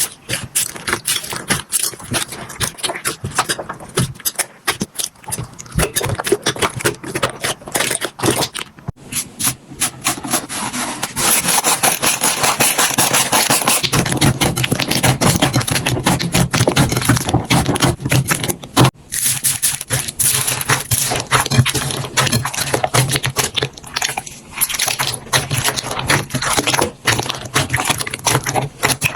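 Slime being squeezed, pressed and poked by hand, a dense run of small crackles, clicks and pops. The sound grows thicker and more continuous for several seconds in the middle, then breaks back into separate crackles.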